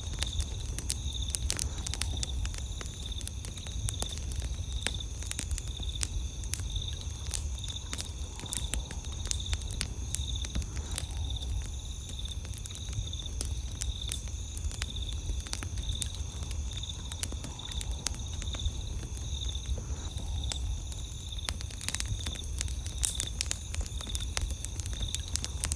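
Campfire crackling with frequent sharp pops, over a steady chorus of night insects trilling at two high pitches.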